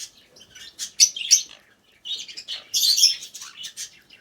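Pet parrots chirping: clusters of short, high-pitched calls in quick succession, with a brief lull about two seconds in.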